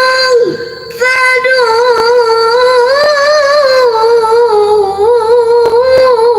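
A woman reciting the Qur'an in melodic tilawah style: one voice holding long, wavering, ornamented notes, with a short break about half a second in.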